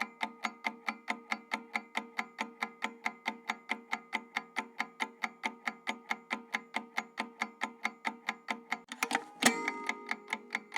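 Clock-ticking timer sound effect, even ticks at about four a second over a steady hum-like tone. A short louder jumble of sound breaks in about nine seconds in, and then the ticking carries on.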